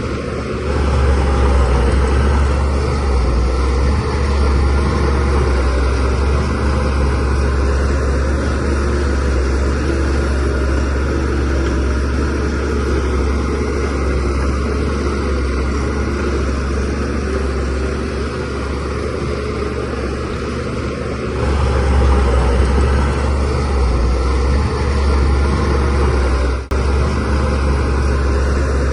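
DH17C3 bulldozer's diesel engine running steadily under work with a heavy low rumble, growing louder about a second in and again about two-thirds of the way through.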